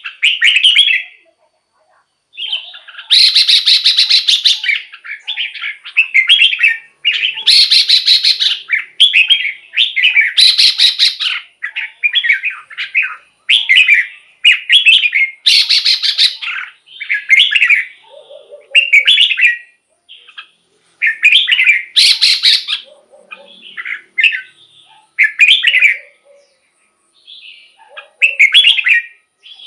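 Red-whiskered bulbul singing: short, loud, warbled phrases repeated with brief gaps, several of them rougher-edged and fuller than the rest.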